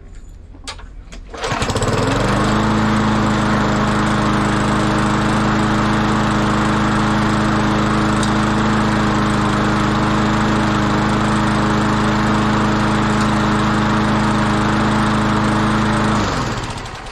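Briggs & Stratton 3.5 hp single-cylinder four-stroke lawn mower engine starting about a second and a half in after a few short knocks, running steadily at a constant speed, then shut off and winding down near the end. It runs well on a newly fitted carburetor after years of not starting.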